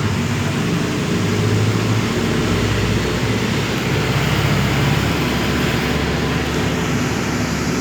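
City bus running along the street, heard from inside: a steady engine hum with road noise.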